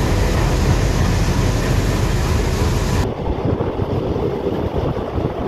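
Passenger train carriage running at speed: a steady low rumble with wind rushing over the microphone. About three seconds in the hiss cuts off abruptly, leaving the rougher rumble and rattle of the carriage.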